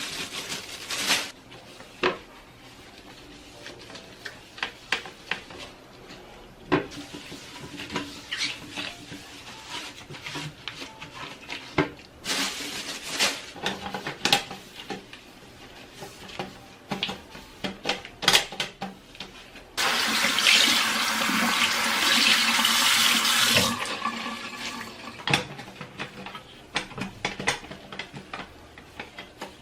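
Scattered clicks and knocks of things being handled while cleaning, then, about two-thirds of the way in, a loud rush of running water for about four seconds that starts suddenly and fades out.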